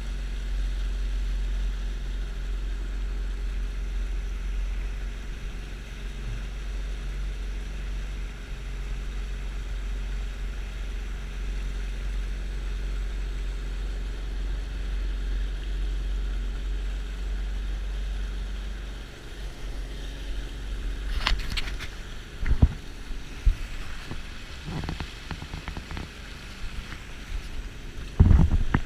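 Supercharged Sea-Doo GTX 300 jet ski running on the water, with a heavy low wind rumble on the microphone. About two-thirds of the way through, the rumble falls away and a few sharp knocks follow, the loudest near the end.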